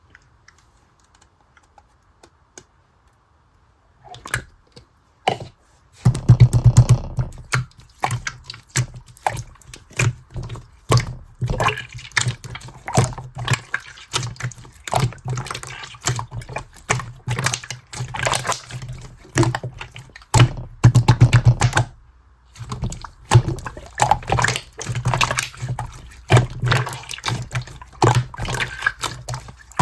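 Clear slime being squished and pressed by hand, giving dense wet clicks and pops. It is nearly silent at first, with a few clicks about four seconds in, and the clicking runs thick and continuous from about six seconds on.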